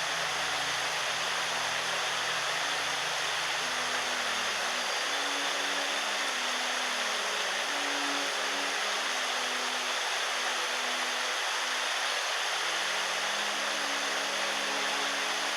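Mountain stream water running in a steady, even rush.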